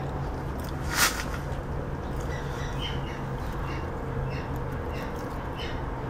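Birds chirping repeatedly in the background over a steady low hum, with one short, loud, sharp sound about a second in.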